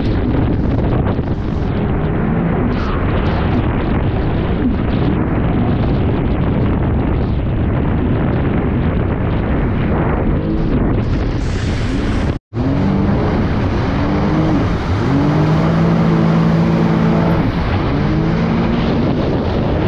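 Personal watercraft (jet ski) engine running under way, with heavy wind buffeting the microphone and water rushing past. About two-thirds through there is a brief dropout, after which the engine's pitch climbs, holds steady and then eases off.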